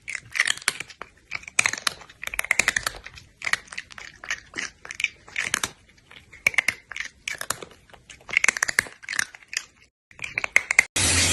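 Short bursts of crunching clicks, a cluster about once a second, with a brief silence near the end.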